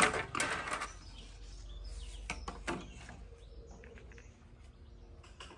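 Birds chirping faintly, with a few light clicks and knocks.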